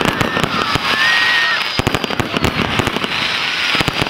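Display fireworks going off in rapid succession: a dense run of crackling pops and sharp bangs over a steady hiss.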